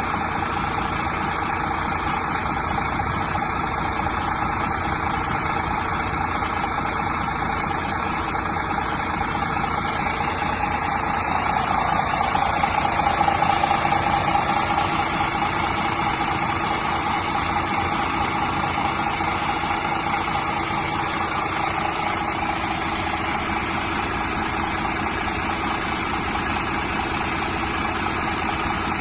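Mercedes-Benz Tourismo coach's diesel engine idling steadily, growing somewhat louder for a few seconds around the middle before settling back.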